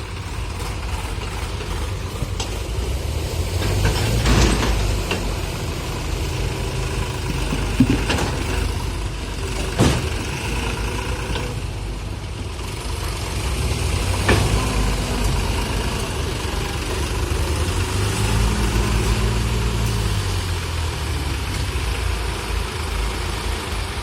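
Heavy diesel engine running steadily at low speed, with several sharp knocks and clanks, the loudest about 8 and 10 seconds in. Near the end the engine speeds up briefly and settles back.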